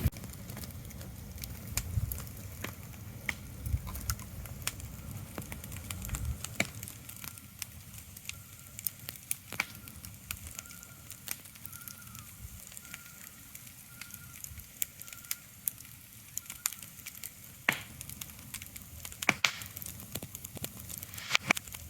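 Irregular crackles and snaps over a steady low hiss, with a few low thumps in the first several seconds and a faint, broken high tone in the middle.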